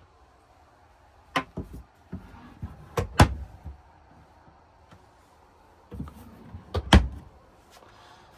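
A compartment door inside a truck camper being opened and handled: two bursts of sharp clunks and knocks, one about a second and a half to three and a half seconds in and another around six to seven seconds in, with the loudest knocks near three seconds and near seven seconds.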